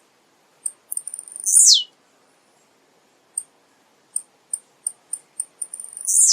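Male blue-black grassquit (tiziu) singing: a few short, high ticks that quicken into a loud buzzy note sliding steeply down in pitch. The phrase comes twice, once about a second and a half in and again at the end.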